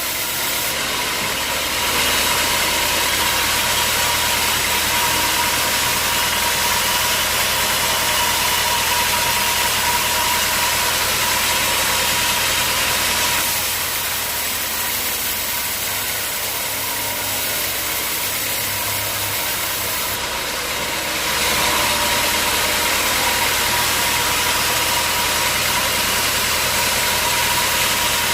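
A sawmill saws hard acacia logs: its engine runs steadily under a dense, high, hissing cutting noise. The noise grows louder about two seconds in, eases off for several seconds near the middle, and picks up again a little past twenty seconds.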